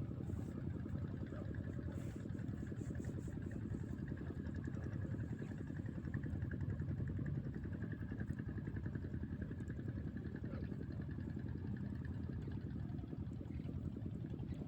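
A small engine running steadily at an even, fast pulse, with a faint steady whine above it.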